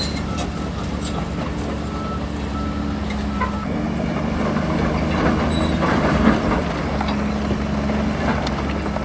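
Diesel engines of heavy earthmoving machinery running steadily, with a reversing alarm beeping faintly. About five to seven seconds in, a rougher rattling noise swells over the engine sound.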